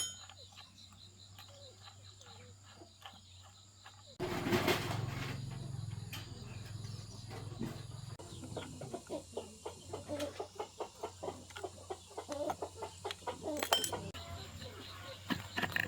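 Chickens clucking, with a sudden louder rumbling noise starting about four seconds in and lasting a few seconds, followed by a run of quick, closely spaced clucks.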